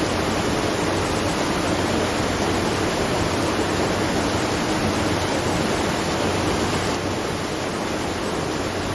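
Water rushing and splashing at a watermill, a steady, unbroken sound like a small waterfall.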